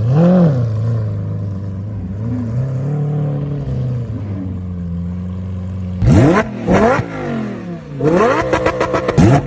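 A vehicle engine running steadily with a low hum, then revved in several quick, sharp blips from about two-thirds of the way in.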